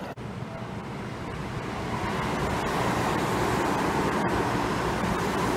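Seibu 10000 series limited express train passing through a station at speed: a rushing noise of wheels and wind that builds about two seconds in and then holds steady and loud.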